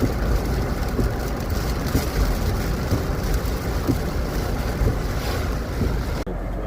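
Strong storm wind rushing and buffeting the microphone over a steady low rumble, with scattered small knocks. The high hiss drops away suddenly near the end.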